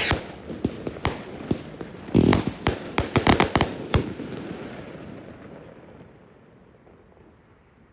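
Fireworks going off: a rapid series of sharp bangs and crackles, thickest about two to four seconds in, followed by a rumbling echo that fades out.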